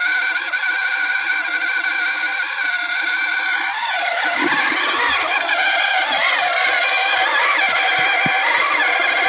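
Massey Ferguson 260 tractor's diesel engine running steadily; from about four seconds in its pitch wavers up and down as the engine speed changes.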